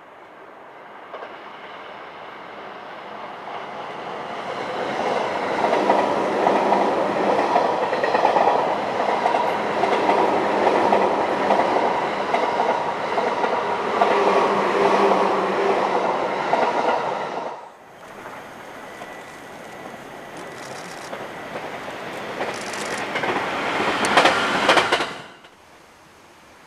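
Electric suburban train passing at speed: wheel and running noise with a steady whine, building up and then cut off suddenly. A second train's noise then swells and stops just as abruptly near the end.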